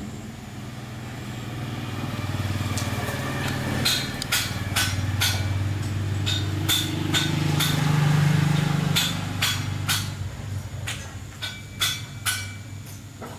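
A small engine running, its hum building up and then dying away, with a series of sharp knocks in the middle of the run.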